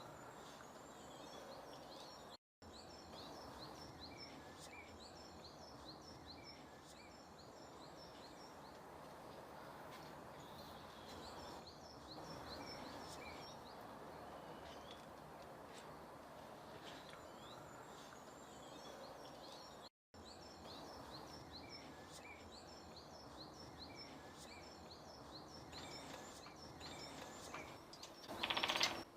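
Songbirds singing in woodland, with a great spotted woodpecker drumming once near the end: a short, very rapid roll of knocks on wood, the loudest sound.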